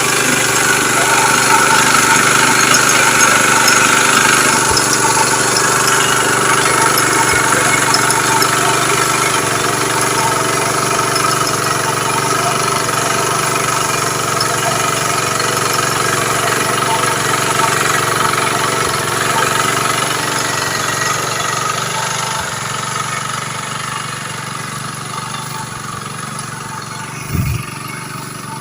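Small engine of a YAP120 rice reaper running steadily, easing gradually quieter toward the end. A brief low thump near the end.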